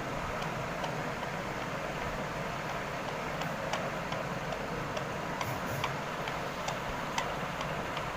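Steady background noise with irregular light clicks, about one or two a second; no whistling or talking.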